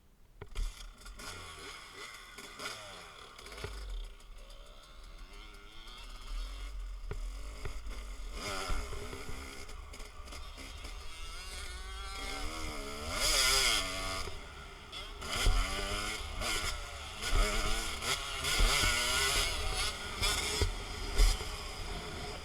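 Dirt bike engine revving up and down again and again as it is ridden hard around a motocross track, with wind buffeting the microphone.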